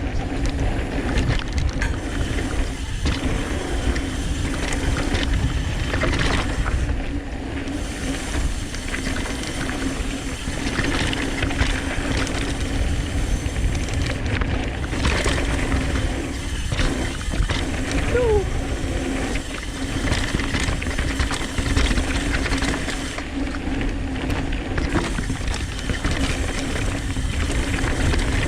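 Downhill mountain bike running fast down a rough dirt trail: a steady rumble of tyres and rattling bike over the ground, mixed with wind buffeting the microphone.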